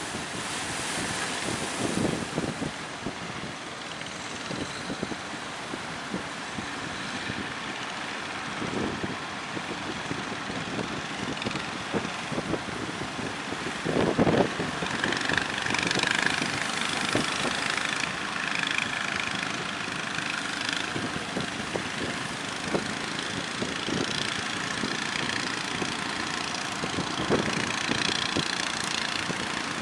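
Small fishing boat engines running steadily over the noise of surf and wind.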